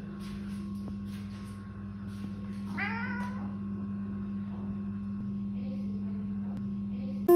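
A domestic cat meows once, briefly, about three seconds in, over a steady low hum.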